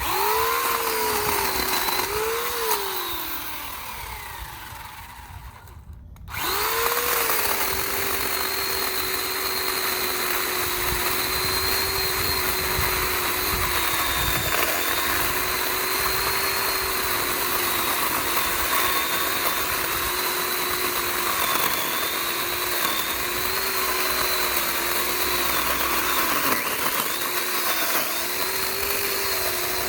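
Sun Joe 12-inch corded electric chainsaw running. It starts, dips once, then winds down and stops about six seconds in. It starts again at once and runs on, its motor pitch sagging again and again as the chain bites into hedge wood.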